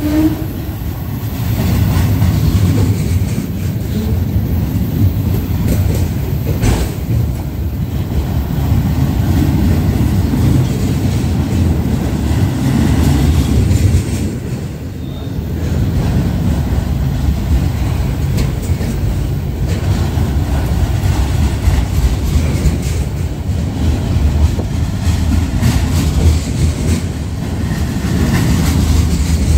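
Loaded autorack freight cars rolling past on the rails: a steady loud rumble with occasional clicks from the wheels.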